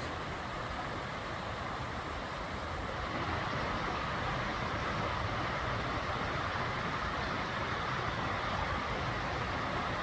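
Steady rushing noise of road traffic, growing louder about three seconds in and holding there.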